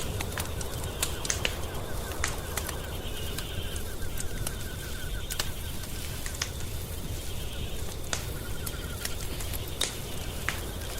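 Wood fire crackling, with sharp pops scattered irregularly over a steady low rumble and hiss. A faint, rapid trill at one steady pitch comes and goes behind it.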